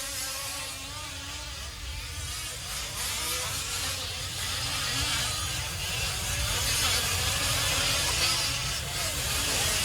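Several 5th-scale RC off-road trucks racing, their small two-stroke gas engines buzzing and revving at overlapping pitches that rise and fall as the throttles open and close.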